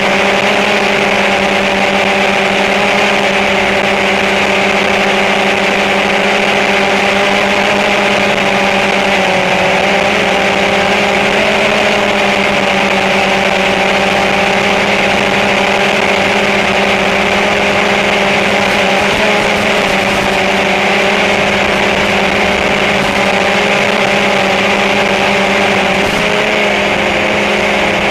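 Small flying drone's rotors running steadily: a loud, unbroken buzzing hum whose pitch wavers slightly, over a steady airy hiss.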